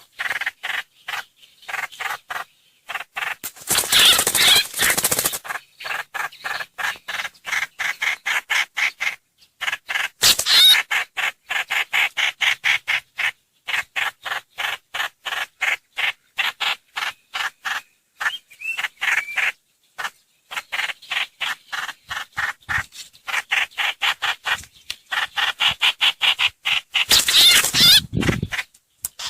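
Recorded calls of the trao trảo (hoành hoạch) bird played as a lure: fast, chattering runs of short repeated notes, several a second. Three louder, harsh raspy bursts break in about four seconds in, ten seconds in and near the end.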